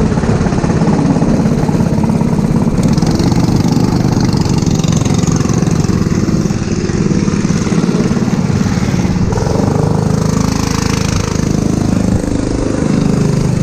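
Four-stroke go-kart engine running continuously under way, its pitch shifting slightly about ten seconds in, with a steady hiss of wind and spray over it.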